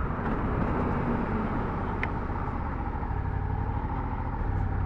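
Suzuki SV650's V-twin engine running steadily without revving, with a haze of wind and road noise over it.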